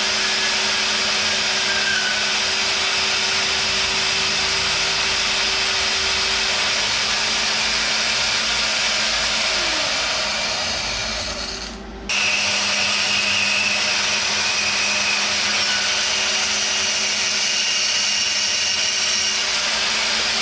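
Electric metalworking shop machine running steadily with a motor hum. About ten seconds in, the motor slows down and the noise fades. Then it is running again at full level until the end.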